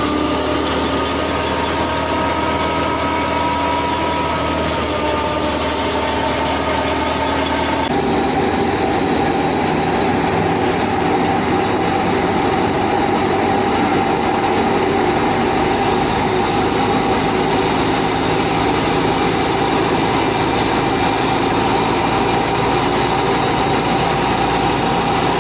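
A motor or engine running steadily, with a sudden change in its tone about eight seconds in.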